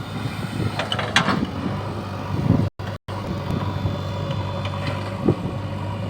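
JCB 3DX backhoe loader's diesel engine running steadily under work, with occasional sharp knocks. The sound drops out twice, very briefly, about three seconds in.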